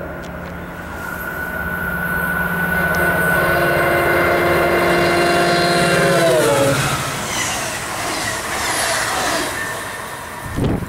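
MARC commuter train's diesel locomotive sounding a chord horn as it approaches, the chord dropping in pitch as the locomotive passes about six seconds in. The rush and rattle of the bilevel coaches rolling by follows.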